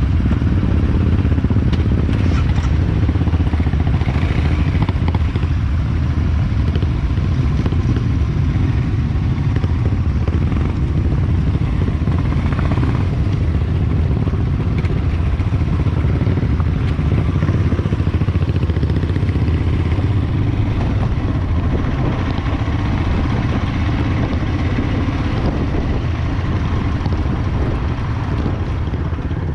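Motorcycle engine running steadily with a continuous low rumble, easing off slightly near the end.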